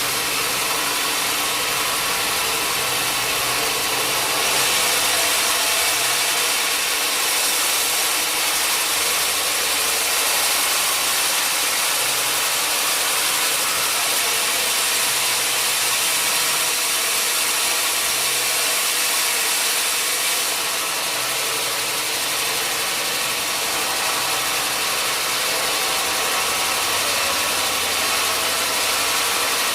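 Sawmill machinery running steadily with a loud, hissing whir, slightly louder and brighter from about four seconds in until around twenty seconds, under a faint engine hum.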